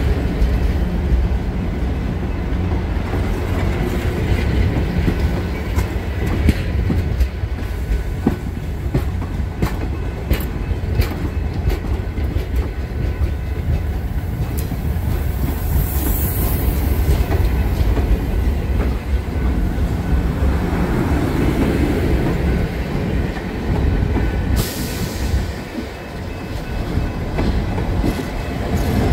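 Passenger train cars rolling slowly past: a steady low rumble with irregular clicks of wheels over rail joints. Two brief high-pitched hisses come through, one about halfway and one near the end.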